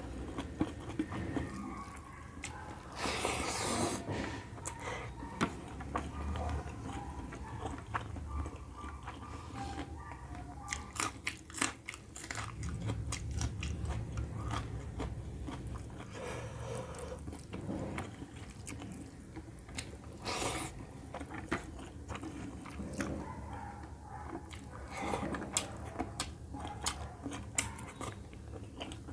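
Close-miked chewing and wet lip smacks from a mouthful of rice and chicken curry eaten by hand, with many irregular sharp smacking clicks.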